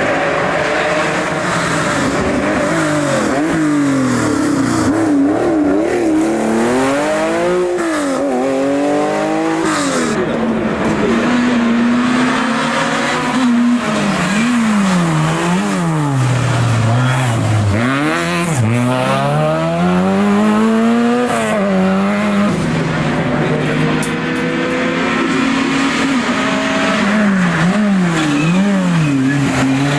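Historic rally car engine worked hard on a special stage. It is loud throughout, its pitch climbing and dropping over and over as it accelerates, shifts gear and lifts off.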